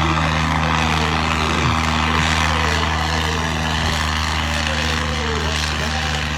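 Tractor diesel engine running steadily under heavy load, a constant-pitch drone that does not rev up or down.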